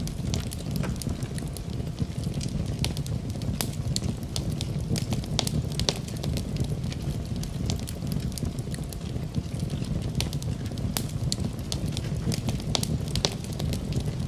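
Wood fire burning in a fireplace: a steady low rumble of flame with many sharp, irregular crackles and pops from the burning wood.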